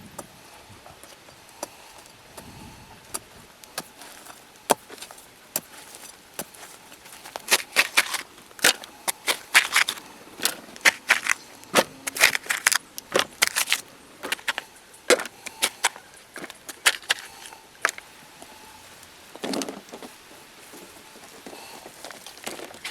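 Irregular sharp clicks and knocks, sparse at first, then coming thick and fast through the middle, before thinning out again.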